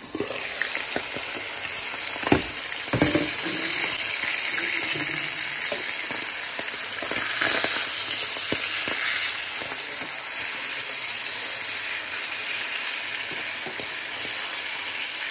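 Salmon fillets frying in butter in a nonstick pan, a steady sizzle that grows louder as the glass lid comes off at the start. Metal tongs knock and click against the pan now and then as the fillets are turned.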